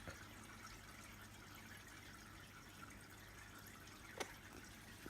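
Aquarium water trickling faintly and steadily, with one sharp click about four seconds in.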